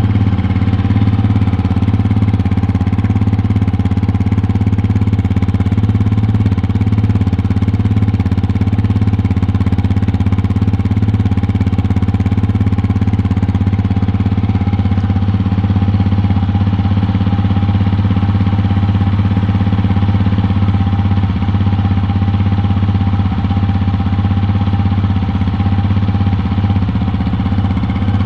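Yamaha Serow 250's air-cooled single-cylinder engine running steadily through a newly fitted BEAMS Power Trek aftermarket muffler, with a constant, even exhaust note.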